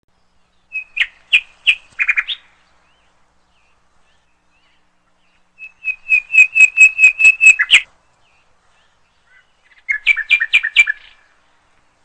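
A bird calling in three bursts of quick, evenly repeated high chirps, each burst about one to two seconds long, with silence between.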